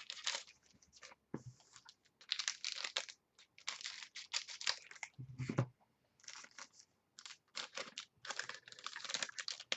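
Trading card packs being torn open and the cards handled: irregular crinkling and tearing of pack wrappers in short bursts, with a duller thump about five seconds in.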